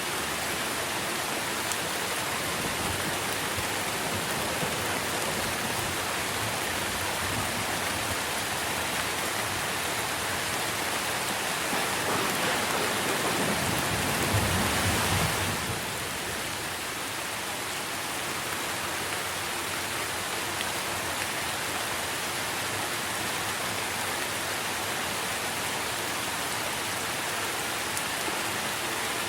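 Steady rain pattering on tree foliage. About halfway through it swells louder with a low rumble for a few seconds, then drops back suddenly.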